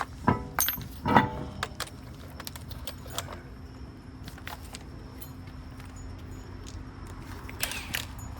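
Metal tools and hardware clinking and clanking: a few sharp, ringing metallic knocks in the first second or so, then scattered light ticks and a brief scrape near the end.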